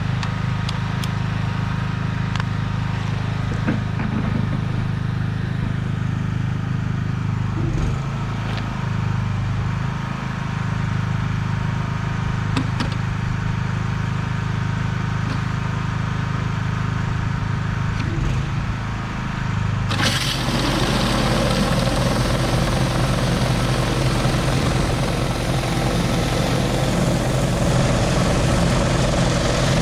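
Pressure washer engine running steadily, then about two-thirds through a surface cleaner's spray starts suddenly with a loud, steady hiss over the engine as it cleans the surface.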